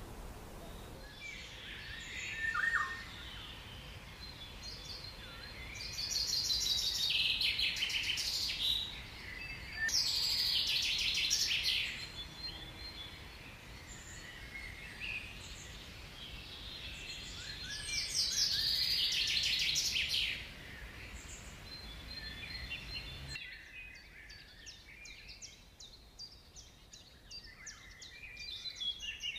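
Forest ambience: birds chirping, with three loud, rapidly pulsing trills of about two seconds each, in the first half and around two-thirds of the way through.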